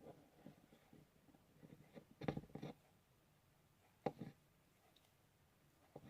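Faint handling sounds: small clicks and rustles, with louder clusters about two seconds and four seconds in.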